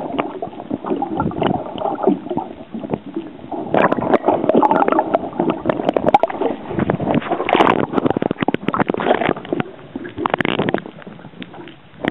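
Water gurgling and sloshing around a waterproof camera dipped below the surface, thick with small clicks and knocks; busiest from about four seconds in until near the end.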